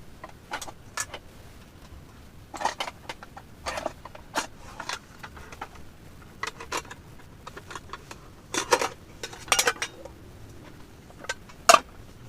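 Cooking pots and utensils being handled: irregular short clinks and clatters, some with a brief ring, with a cluster of louder knocks in the second half and one sharp clink near the end.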